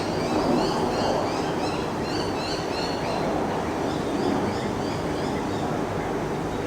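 Wind blowing over the microphone in a steady rushing rumble. Over it, small birds chirp in quick, repeated high notes, several a second, strongest in the first half and fainter later.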